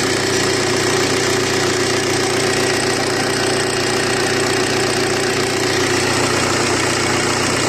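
Turbocharged Audi engine idling steadily on its first trial run after repair.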